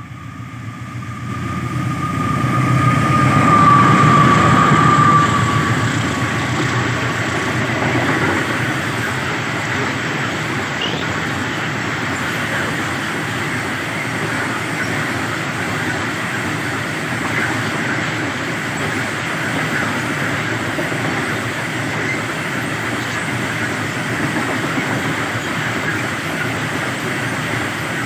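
Coal train passing: the locomotive's engine rumble grows louder over the first few seconds and goes by, then a long line of loaded coal wagons rolls past with a steady, even rolling noise.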